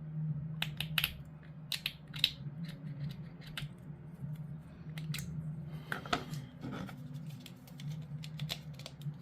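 Hard plastic model terrain parts being handled and pushed together by hand: a string of irregular sharp clicks and light scrapes over a low steady hum.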